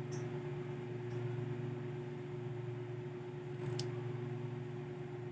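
Small scissors cutting fabric, a few soft snips with a sharper click about four seconds in, over a steady low hum.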